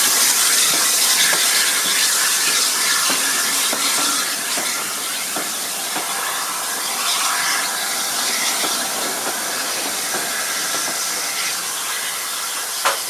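Steam locomotive hissing loudly and steadily as steam escapes, easing off slightly over several seconds, a hiss the uploader takes for a steam leak. Scattered light clicks run through it, with one sharp click near the end.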